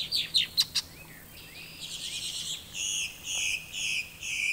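Marsh birds calling: a quick run of falling chirps and a few sharp clicks, then buzzy calls, ending in four short buzzes about half a second apart.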